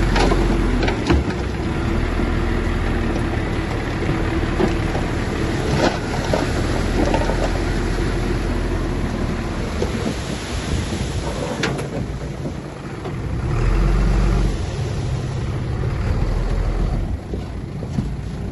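Shantui bulldozer's diesel engine running steadily under load, with metallic clanking and a few sharp knocks from its steel tracks and the stone being pushed. The engine swells louder for a moment about two-thirds of the way through.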